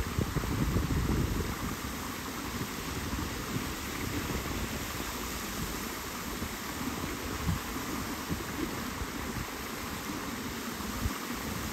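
Steady rush of flowing river water, with wind buffeting the microphone in uneven low gusts that are strongest in the first second or two.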